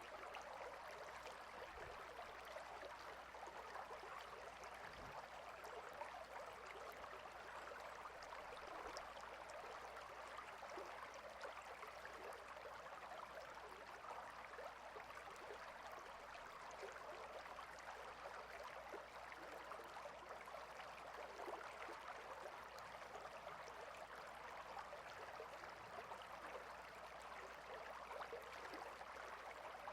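A small stream flowing and babbling steadily, faint and unchanging.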